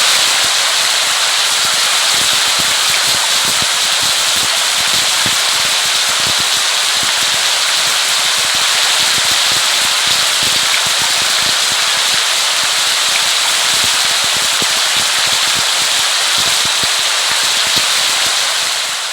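Steady rain: an even hiss packed with fine crackling drops, fading out at the very end.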